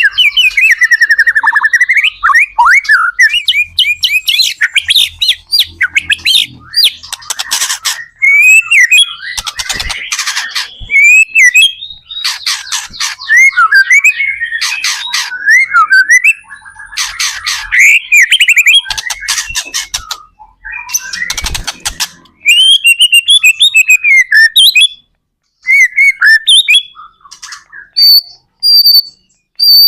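White-rumped shama in full song: a loud, fast, varied run of clear whistles, rapid trills and harsh rattling notes, in phrases broken by short pauses.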